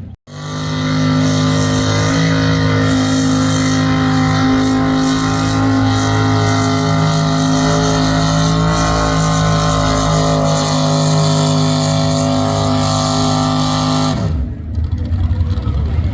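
V8 engine of a pulling tractor running flat out at steady, high revs under load, its pitch holding almost constant, then cutting off near the end.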